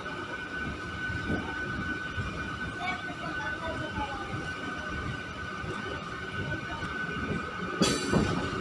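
MEMU electric train running on the main line: a steady rumble with a constant high whine, broken near the end by a sudden loud burst of noise.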